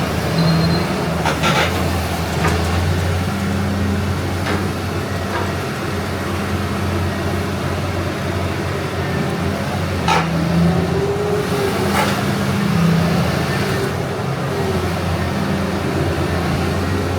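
CAT 320D hydraulic excavator's six-cylinder diesel engine running steadily, with several sharp knocks from the machine and a brief whine a little past the middle.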